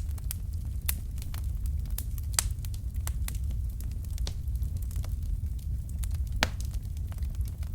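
Fireplace fire crackling: irregular sharp snaps and pops over a steady low rumble of the flames, with a louder pop a little past halfway.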